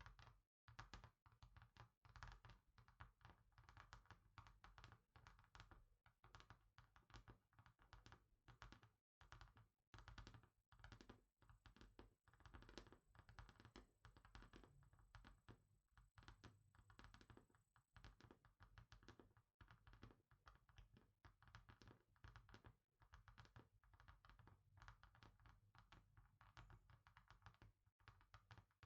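Fingers tapping quickly and lightly on a hard surface, a dense, uneven stream of small taps several a second.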